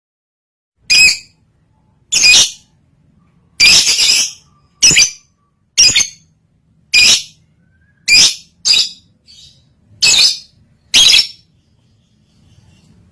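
A lovebird in breeding condition (birahi) giving about ten loud, shrill, harsh calls, roughly one a second, with short gaps between them.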